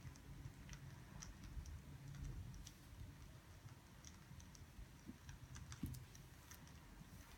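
Faint crackling of burning firewood: scattered, irregular small pops and snaps over a low steady rumble.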